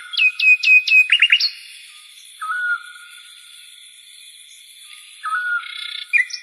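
A bird chirping and whistling: a quick run of sharply falling chirps at the start, a short level whistled note about two and a half seconds in and again about five seconds in, then a cluster of chirps near the end.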